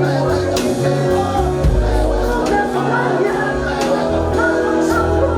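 Live gospel worship music: a band with bass and drums playing a steady beat while a group sings.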